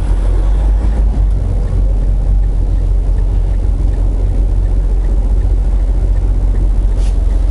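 Semi truck's diesel engine running steadily, a low rumble heard from inside the cab.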